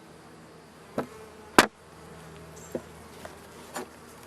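Honey bees buzzing around an opened hive in a steady drone. Two sharp knocks come about one and one-and-a-half seconds in, followed by a couple of fainter clicks.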